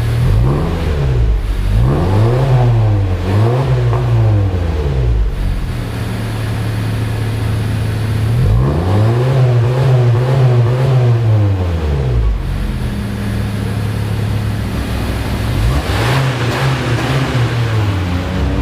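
Honda Civic FC's 1.5-litre turbocharged four-cylinder engine, breathing through a custom stainless-steel downpipe and valvetronic exhaust, revved from idle. There are three quick revs, then a longer held rev about halfway through and another rev near the end, settling back to idle between them.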